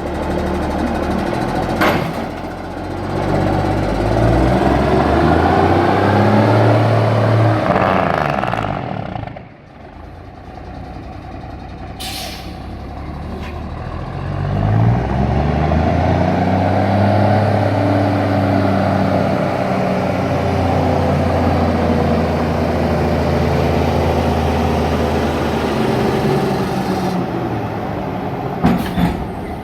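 Straight-piped Cummins 262 straight-six diesel in a 1957 International RD-405 truck, pulling hard with its exhaust note rising in pitch, dropping off sharply about nine seconds in, then climbing and holding again before falling away near the end, in the manner of the Jake brake engine brake. A short hiss about twelve seconds in.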